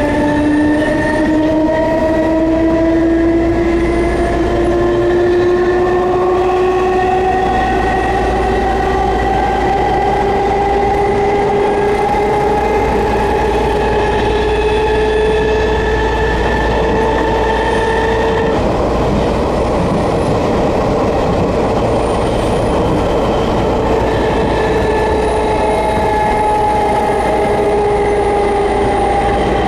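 Enshū Railway 30-series electric train heard from inside the passenger car, its traction motors whining and rising slowly in pitch as it gathers speed over steady rail and running noise. About two-thirds of the way through the whine fades, and a steadier whine returns near the end.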